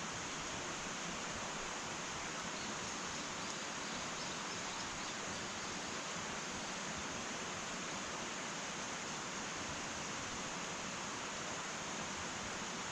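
Wood fire burning in an irori sunken hearth: a steady, even hiss, with a few faint crackles about three to five seconds in.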